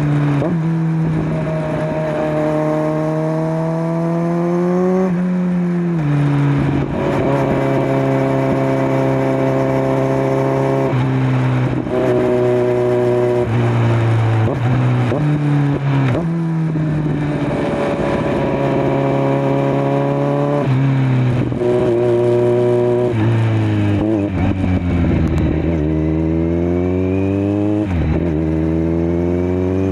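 Kawasaki Z900's inline-four engine through a LeoVince LV10 slip-on exhaust, heard from the rider's seat while riding. It pulls up through the revs with a rising pitch and drops sharply at each gear change, several times over. Near the end the revs fall and pick up again as the bike slows and speeds up.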